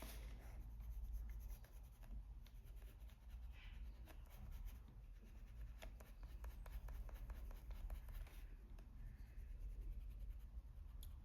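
Faint scratching of a Polychromos coloured pencil on paper, shading in many quick, irregular strokes.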